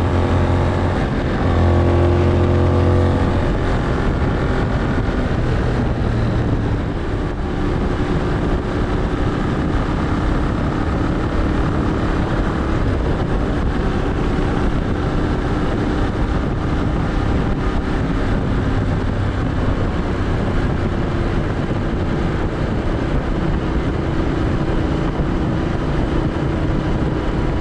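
Benelli 752S 754 cc parallel-twin engine running steadily while riding, with wind rush over it. The engine note breaks briefly about a second in.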